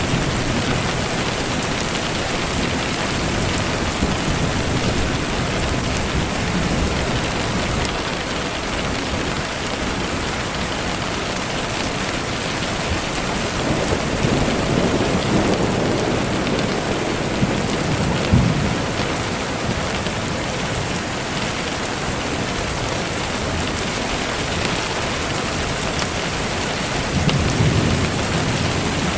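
Steady rainfall, with low rumbles of thunder swelling and fading a little past halfway and again near the end.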